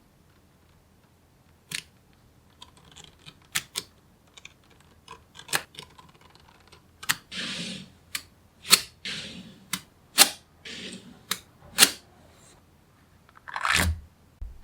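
Small neodymium magnetic balls snapping together with sharp, irregular clicks as they are placed one by one, with short rattles and scrapes of balls sliding and rolling against each other in between.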